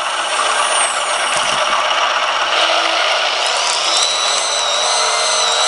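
Small electric linear actuator (Actuonix/Firgelli) driving an RC D5 dozer's ripper, its motor and gearing running with a steady whir and a high whine that rises about three and a half seconds in as it takes the load of lifting the back of the machine.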